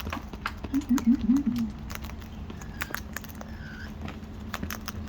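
Birds' beaks tapping and pecking at seed and containers: many short, irregular clicks throughout. About a second in comes a quick run of four short low notes, with a faint high chirp near the middle.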